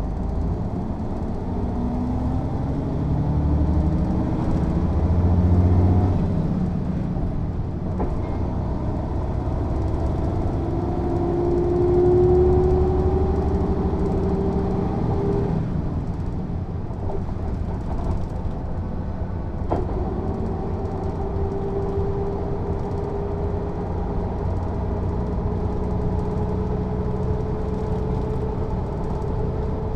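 Mercedes-Benz O 407 bus's diesel engine pulling away and accelerating: its note rises twice, falling back as the gearbox changes up, with a short click about twenty seconds in. It then holds a steady, slowly rising pitch at cruising speed.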